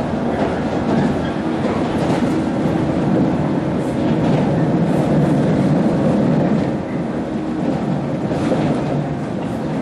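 Cabin running noise of a 115-series electric train: its MT54 traction motors hum under a steady rumble of wheels on rail, with a few faint rail-joint clicks. The sound eases slightly about seven seconds in.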